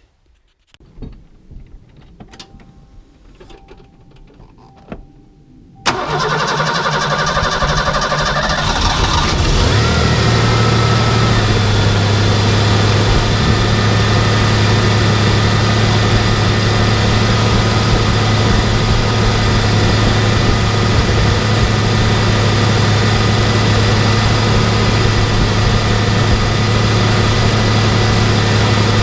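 The 1986 Ford Ranger's 2.9 V6 cranks and fires up about six seconds in, just after a tune-up with fresh spark plugs, plug wires and coil wire. It runs unevenly for a few seconds, then settles into a steady idle.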